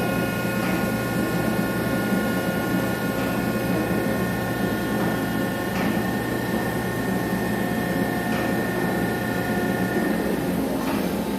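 Gun drilling machine running steadily, with a whine of several steady tones over a constant machine noise; the whine stops about ten seconds in while the background machine noise carries on.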